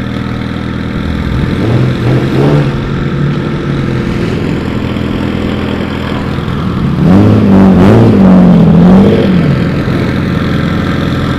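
Car engine idling with throttle blips: a short rev about two seconds in, then a louder series of revs rising and falling from about seven to nine seconds in.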